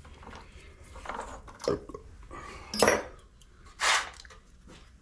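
Metal tools and parts clinking and knocking as they are handled and sorted, a few separate clanks, one about three seconds in with a brief high metallic ring.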